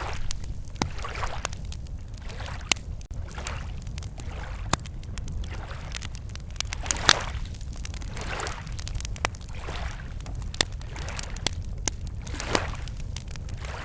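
Wood campfire crackling with many sharp pops, the loudest about seven seconds in, while small waves lap against the lake shore in soft swells every second or two.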